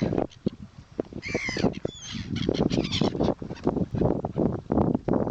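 Birds calling: a burst of high, wavering chirps about a second in and a few short whistled notes after it, over irregular low thumps and rumble.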